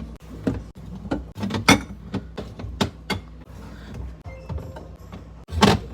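Items and containers being handled in a fridge: a string of sharp knocks and clacks, loudest in a cluster near the end, over a low steady hum.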